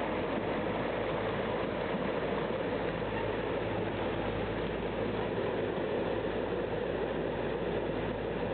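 A tractor's engine running steadily, holding an even note without revving up or down.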